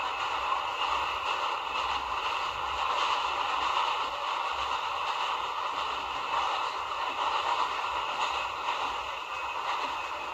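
Santiago Metro NS-93 rubber-tyred train running at a steady speed: an even rolling rush with several steady whining tones over it.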